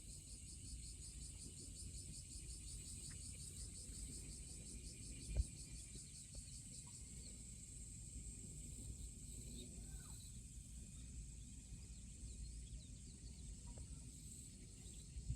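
Insects trilling in a high, fast-pulsing chorus that thins out about halfway through, over a low outdoor rumble, with one sharp knock about five seconds in.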